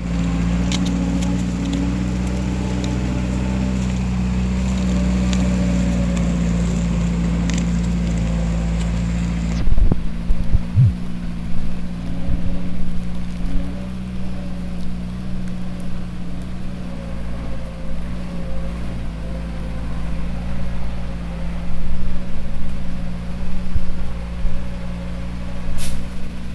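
Mercedes-Benz MB-trac tractor's diesel engine running steadily. About ten seconds in, irregular low thumps and gusts join it while the engine note carries on.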